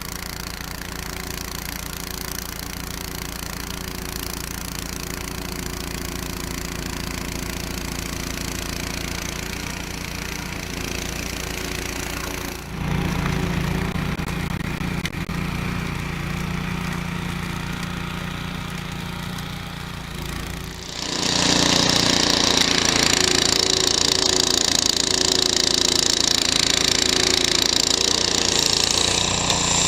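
Snow blower's small engine running steadily with a rapid knocking beat. It gets louder partway through, and about two-thirds of the way in a loud rushing hiss joins it.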